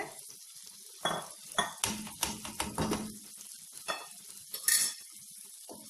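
Chicken pieces in yoghurt marinade frying in oil in a kadhai with a steady sizzle, while a spoon scrapes and clinks against the metal pan as they are stirred, in a run of strokes from about one to three seconds in and a couple more later.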